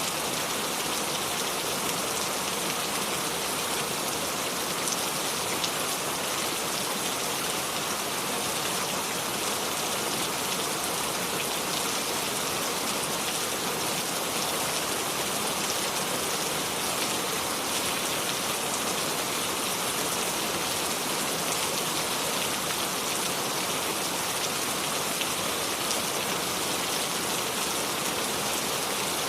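Steady rain falling, an even hiss of many drops with faint individual patters and no thunder.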